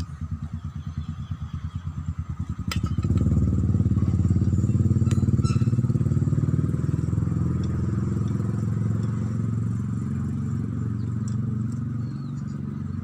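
A small engine idling with a steady low pulse, growing louder about three seconds in and then holding steady.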